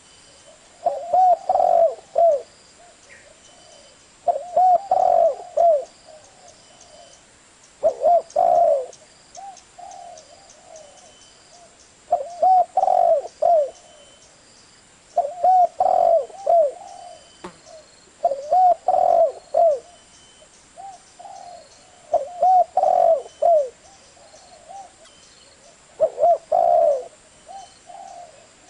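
Spotted dove cooing: short phrases of several low, rounded coo notes, repeated about every three to four seconds, with fainter coos in some of the gaps.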